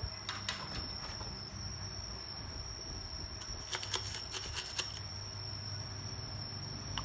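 Steady high-pitched whine over a low hum from running bench equipment, with a few light clicks near the start and a quick cluster of them about four seconds in, typical of small tools touching the board.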